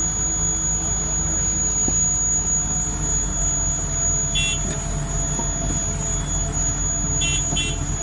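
Steady low drone of a heavy machine's engine running. Short high electronic beeps come once about four seconds in and twice in quick succession near the end.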